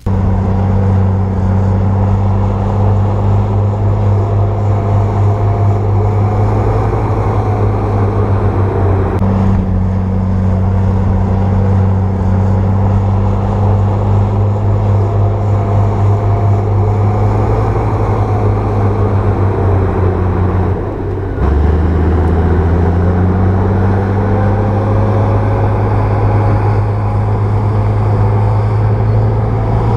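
Bulldozer's diesel engine running steadily under load with a deep drone. About two-thirds of the way through it dips briefly, then picks up again at a slightly changed pitch.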